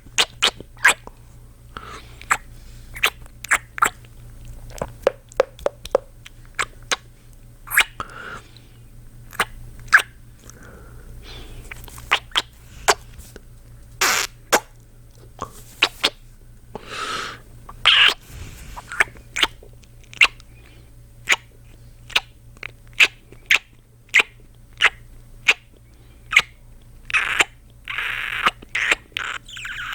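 Close-miked kissing sounds: a man's lips smacking in quick, irregular kisses, many in a row, with a few longer breathy sounds in between.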